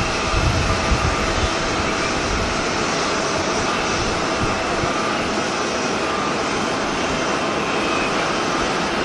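Jet airliner engines running, a steady broad rush with faint thin whine tones. Uneven low buffeting, strongest in the first second and a half, fits strong wind on the microphone.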